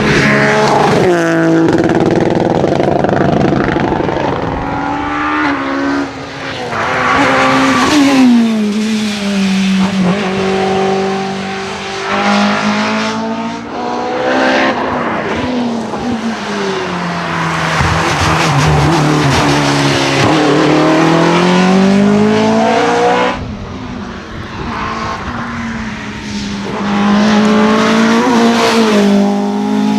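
Rally cars driven hard on a stage, one after another. Their engines rev up and drop back again and again as they brake, change gear and accelerate, and each pass changes abruptly to the next.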